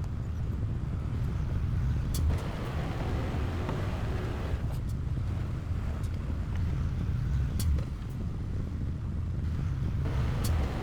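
Diesel engine of a heavy earthmoving machine running steadily with a deep rumble, with stretches of rougher grinding noise and a few sharp clicks.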